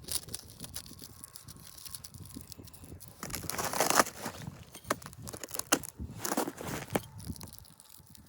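Irregular crunching and rustling, with the loudest stretch about three and a half seconds in and a few shorter crunches after it.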